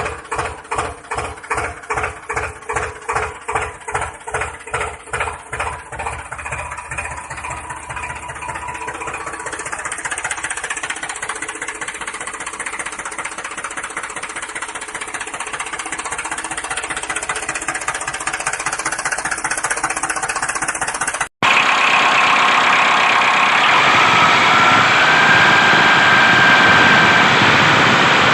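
A small engine on a DIY model tractor chugging in slow, even beats about twice a second, which quicken and merge into a steady run. About three-quarters of the way through it cuts off suddenly and gives way to a louder, hissier steady run with a faint rising whine.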